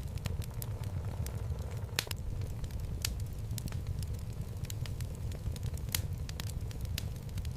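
Wood fire burning in a home fireplace: a steady low rumble of flames with frequent irregular crackles and pops from the logs, a few sharper pops standing out now and then.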